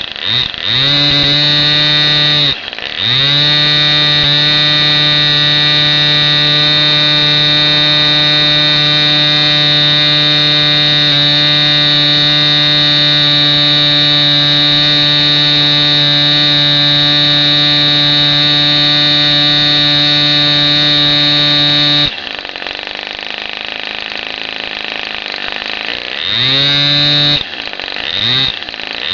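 Small Raduga-10 petrol engine running at high speed with a high, steady buzzing note, blipped up and down in the first few seconds. About three-quarters of the way through it is throttled back to a lower, quieter speed for a few seconds, then revved up again near the end.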